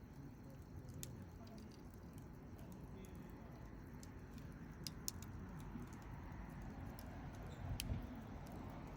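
Campfire of burning wood: a steady low noise with scattered sharp crackles and pops, a few close together about five seconds in and the loudest pop near the end.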